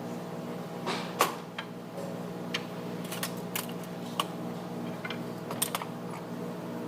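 A steady machine hum with scattered light clicks and knocks over it, about a dozen, the loudest just over a second in.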